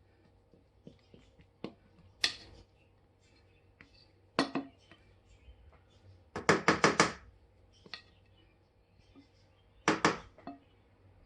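Kitchen utensil scraping and clattering against a mixing bowl and cake mould as cake batter is poured out. There are a few separate short scrapes, and a quick run of about six knocks a little past the middle.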